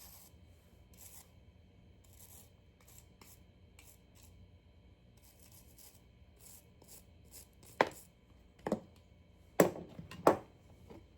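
Faint scratchy handling noises, then four sharp knocks of a hard object on a hard surface in the last few seconds, the last two loudest.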